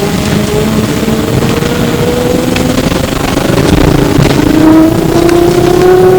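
Onboard sound of an E902 Flyer electric trolleybus: the traction motor's whine rises steadily in pitch as the bus gathers speed, drops back about three and a half seconds in, then climbs again, over road noise and light body rattles.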